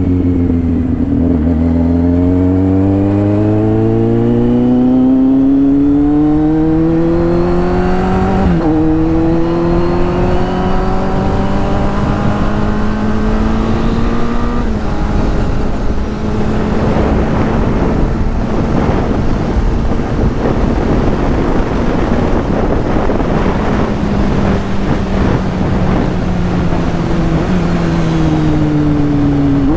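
Kawasaki Z800 inline-four with a straight-through exhaust, ridden under load. The engine note climbs, drops with an upshift about eight seconds in and again near fifteen seconds, then holds a steady cruise under rushing wind noise. It eases off near the end and changes gear once more at the very end.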